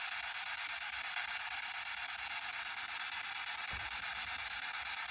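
Spirit box (radio-scanning ghost box) giving out a steady hiss of radio static.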